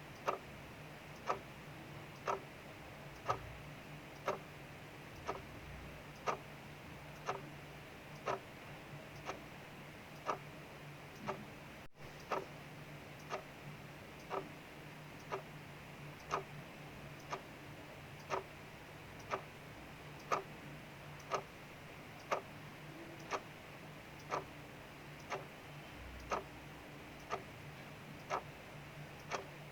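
A clock ticking steadily, about once a second, over a faint steady hiss of rain outside.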